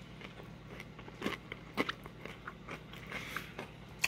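Crunching and chewing a crispy fried chicken sandwich: scattered sharp crackles of the breading, the loudest about a second and a half in and again near the end.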